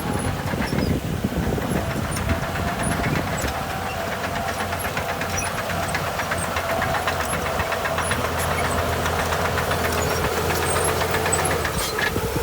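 Heavy diesel engine of earthmoving machinery running steadily, with a rapid, even knock and a faint tone that drifts slowly lower.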